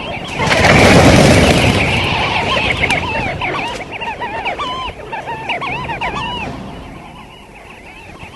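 A flock of sandgrouse calling in short, repeated chirps. About half a second in comes a sudden loud whoosh of many wings as the flock takes flight; it fades over the next two seconds, and the calls carry on and die away near the end.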